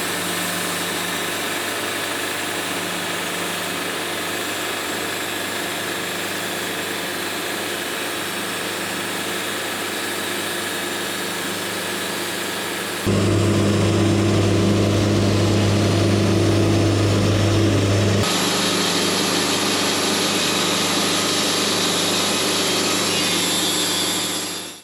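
Mobile Dimension portable sawmill running steadily as it saws a wide maple slab, its engine giving an even hum. The sound jumps suddenly louder about halfway through, drops back a few seconds later and cuts off at the end. The blade was getting dull by this point in the cut, which left washboarding on the slab.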